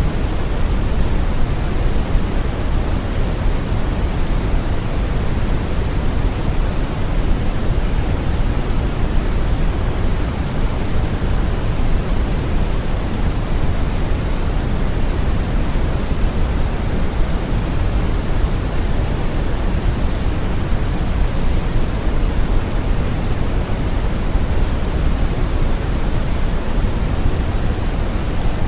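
Steady brown noise: an even, deep rushing hiss weighted toward the bass, with no changes or events.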